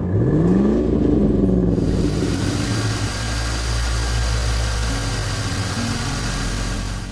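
Engine sound effect revving up and back down over a low rumble, then a steady rushing noise over the continuing rumble.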